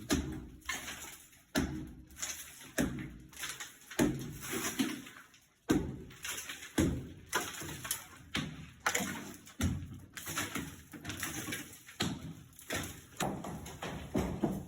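Demolition breaking of an existing structure: a series of heavy impacts, roughly one a second at an uneven pace, each dying away quickly.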